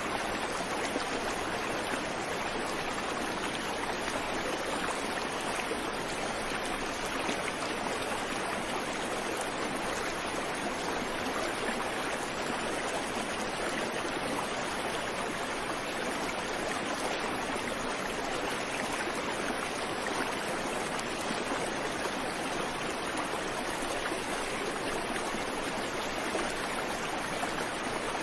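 Creek water flowing over rocks: a steady, even rush with no birdsong.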